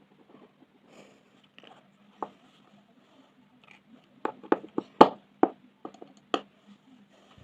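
Colored pencils and pens being handled against each other and the table: a sharp click about two seconds in, then a quick run of about eight clicks and taps, loudest about five seconds in.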